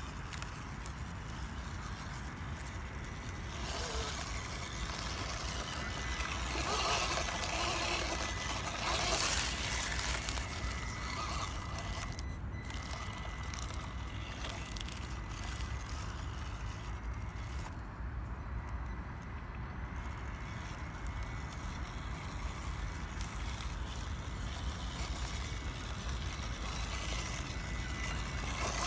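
Small electric radio-controlled off-road car driving over rough ground, with a faint steady whine from its motor and louder grinding stretches in the first third. Wind rumbles on the microphone throughout.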